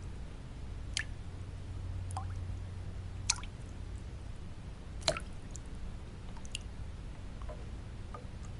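Water drops falling one at a time into water, each a short rising plink, at irregular intervals of about one to two seconds, the loudest two about a third and halfway through. Under them runs a steady low white-noise bed.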